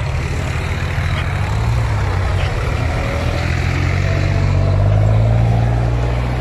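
Tractor diesel engine running steadily, its low drone growing louder for a couple of seconds past the middle.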